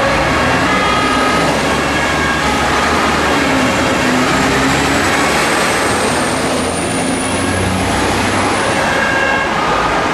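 Fire engines pulling out under a German two-tone siren (Martinshorn), its two pitches alternating over loud engine and road noise. The siren tones sink under the vehicle noise in the middle and come back near the end.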